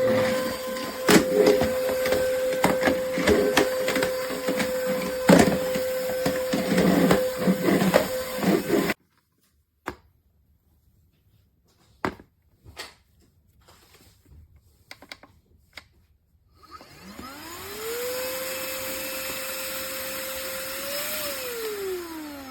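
Cordless stick vacuum cleaner running with a steady whine, with clicks and rattles over it; it stops abruptly about nine seconds in, leaving a few scattered clicks. About seventeen seconds in, the motor starts again with a rising whine, holds steady, then winds down near the end.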